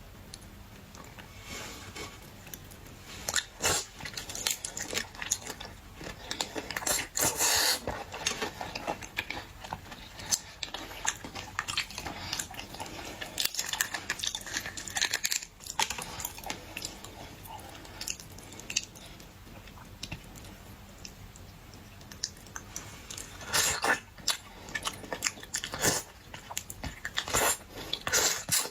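Mouth sounds of someone chewing and biting boiled seafood: irregular crunching and crackling bites in bursts, loudest a few seconds in and again near the end.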